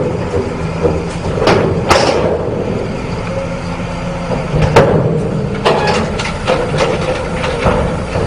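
Heavy truck engine running steadily, with several sharp clanks and knocks, the loudest about two seconds in and near the middle.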